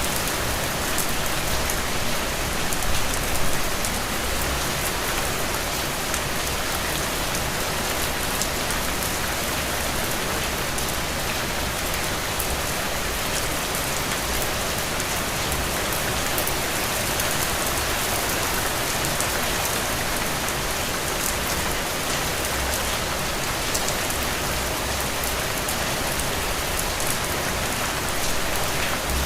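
Heavy rain falling steadily, an even, dense hiss of countless drops.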